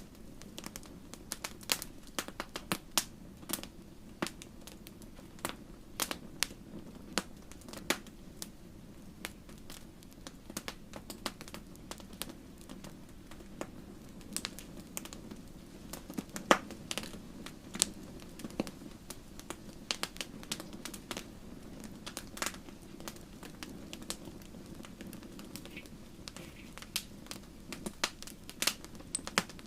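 Wood fire burning in a fireplace, crackling with irregular sharp pops over a steady low rumble of the flames; one louder pop about halfway through.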